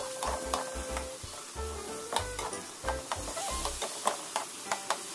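Pork belly slices sizzling in soy sauce and oyster sauce in a nonstick frying pan while being stirred with a spatula, with frequent sharp clicks and scrapes of the utensils against the pan.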